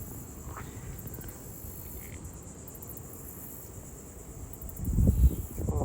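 Insect chorus, crickets or similar, trilling steadily in a high band over a low rumble; the rumble grows louder about five seconds in.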